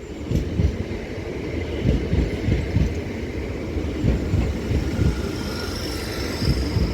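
Two coupled Class 387 electric multiple units rolling slowly into the platform to terminate: a steady rumble of wheels on rail with irregular clattering thuds. A faint high-pitched squeal comes in near the end.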